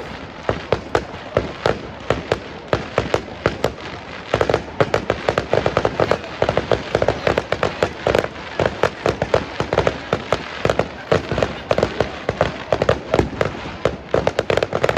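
Fireworks display going off in a rapid, continuous barrage of sharp bangs and crackles, several a second.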